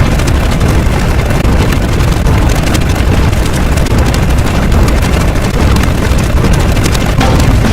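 Loud, steady rumbling roar with a crackle on top, heavy in the low end: a synthetic rumble sound effect.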